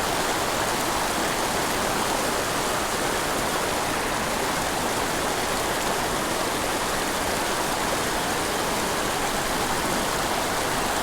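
Steep mountain creek running: a steady, even rush of flowing water.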